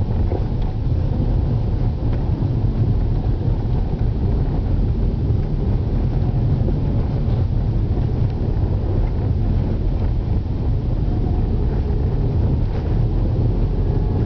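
A moving car's engine and tyre noise heard from inside the cabin: a steady low rumble with no change in pace.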